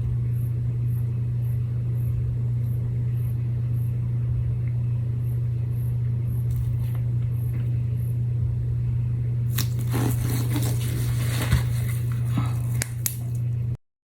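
A steady low hum, with light handling noise from about two-thirds of the way in: scraping and small clicks as resin work is handled. The sound cuts out completely just before the end.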